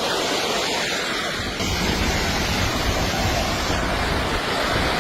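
Steady rushing of fast-moving water, a loud even noise that turns deeper about a second and a half in.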